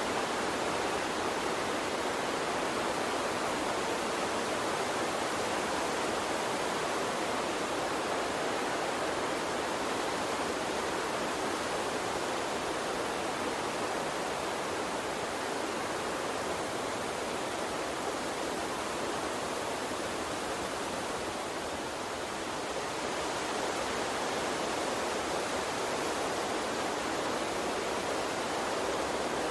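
Small stream flowing steadily: a continuous, even rush of running water that eases slightly for a moment about two-thirds of the way through.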